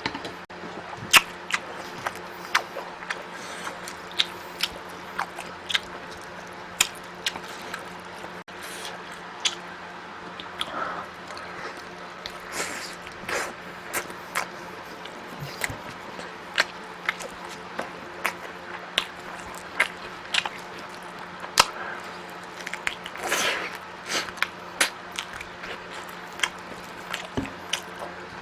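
Close-miked eating: a man chewing and biting food, with frequent sharp clicks and wet mouth sounds scattered irregularly, over a steady low hum.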